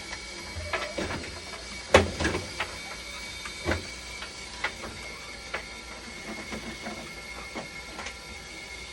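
Dialysis machine running with a steady high whine and low hum, over irregular sharp clicks and knocks; the loudest knock comes about two seconds in.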